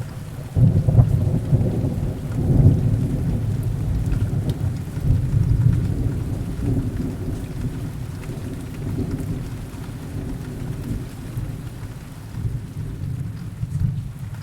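Heavy rain with a long roll of thunder: the rumble swells suddenly about half a second in, surges again a couple of times, then slowly dies away under the steady rain.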